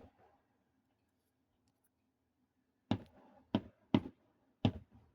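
Fireworks going off as sharp bangs: one right at the start, then four more in quick succession over the last two seconds, the first of them followed by a short trailing rumble.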